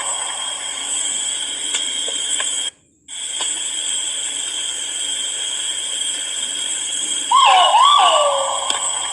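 Great argus pheasant call: one loud call about seven seconds in that rises briefly and then glides down in pitch over about a second. Under it runs a steady high whine, which cuts out suddenly for a moment about three seconds in.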